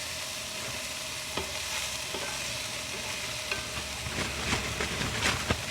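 Ground beef and peppers sizzling in a frying pan, with a utensil scraping and knocking against the pan in the second half as the meat is scooped out.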